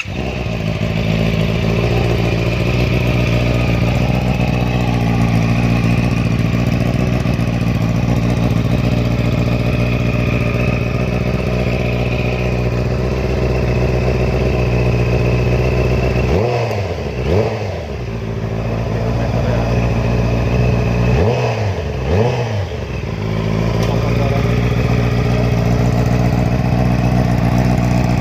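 Honda CB650R inline-four engine idling steadily through an aftermarket Akrapovic exhaust, revved twice in quick rises and falls about two-thirds of the way through, then settling back to idle.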